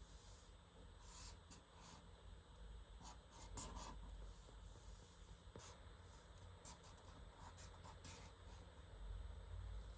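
Pen drawing on paper: short, quick scratching strokes at irregular intervals, sometimes several in a second, over a faint low hum.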